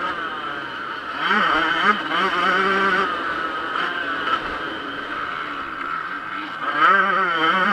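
Yamaha YZ125 two-stroke motocross engine revving hard, its pitch rising and falling again and again with the throttle, loudest about a second in and again near the end.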